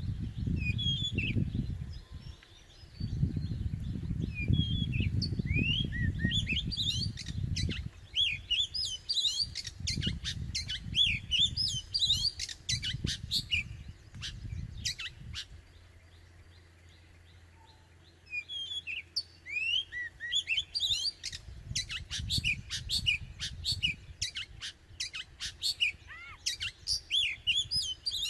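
Oriental magpie-robin singing: a run of varied short whistled notes and sharp clicking notes, thickening into a fast, dense stretch of song partway through. A low rumbling noise runs under the song for much of the first half.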